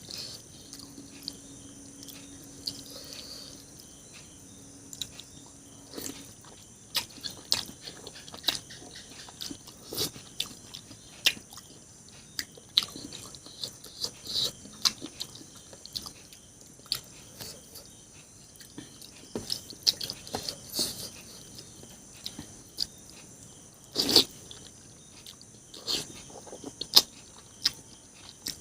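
Close-up mukbang eating sounds: chewing and biting food, with many short sharp clicks scattered irregularly throughout.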